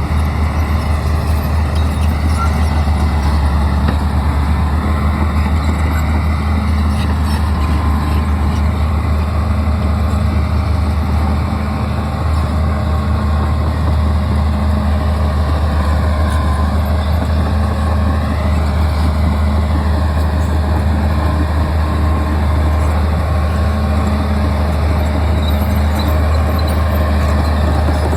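Bulldozer diesel engine running steadily under work, a constant deep low rumble.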